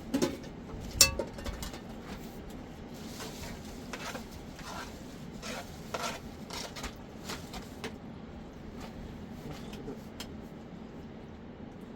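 Dishes and metal utensils clinking and knocking, a series of irregular sharp clicks with one loud knock about a second in.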